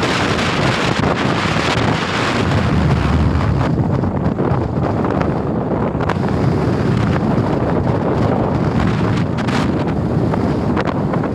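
Strong wind buffeting the microphone in a steady, loud rush, with the wash of rough sea waves beneath it.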